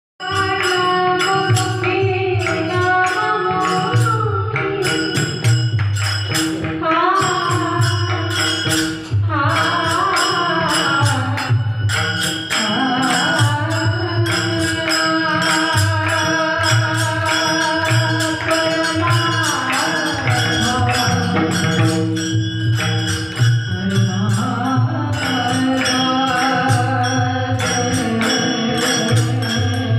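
Devotional kirtan singing: a voice drawing out a long ornamented alaap over a steady drum beat and bright jingling percussion strokes.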